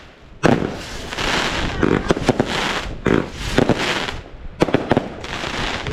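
Fireworks going off: sharp bangs roughly once a second, each followed by about a second of hiss and crackle.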